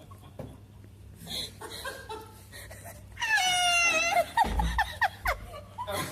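A person's voice wailing one long high note about three seconds in, then a run of short sliding yelps, a mock singing sound check into the booth microphone.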